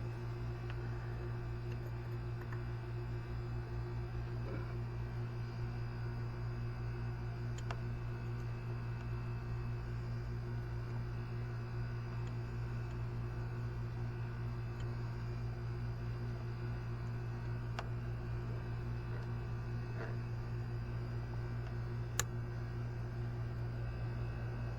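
A steady low hum with faint higher overtones, broken by a few faint sharp clicks.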